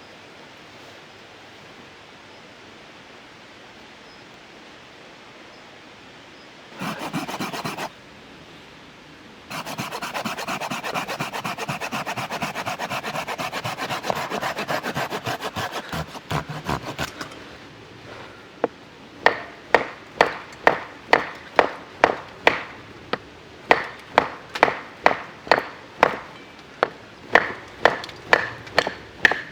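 A hand tool working wood: a long stretch of rapid rasping strokes, then regular sharp strokes about one and a half a second. The wood is very hard. Under a faint steady hiss of rain for the first several seconds.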